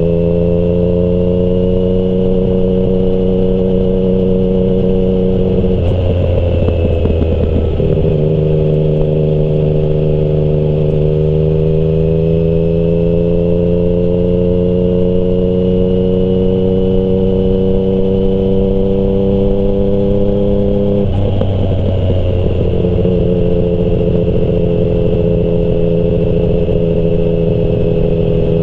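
Yamaha MT-09 inline three-cylinder engine through a Termignoni exhaust, pulling under steady throttle with its note slowly climbing. It is broken twice, about six seconds in and again about twenty-one seconds in, by a brief rough patch, after which it comes back at a lower pitch, like an upshift.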